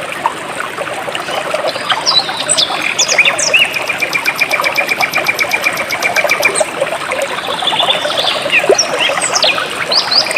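Stream water flowing and trickling steadily, with wild birds calling over it: sweeping chirps from about two seconds in and a rapid, even trill of repeated notes through the middle.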